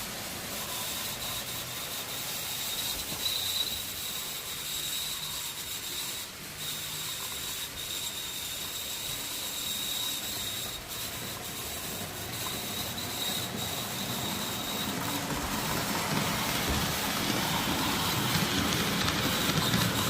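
N-gauge model train running on its track: a steady motor and gear whine with a high thin tone over a hiss, growing louder and fuller in the last few seconds.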